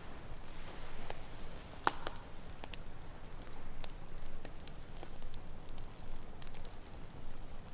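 Campfire wood crackling, with irregular sharp pops scattered throughout and one louder pop about two seconds in, over a steady low wash of ocean waves.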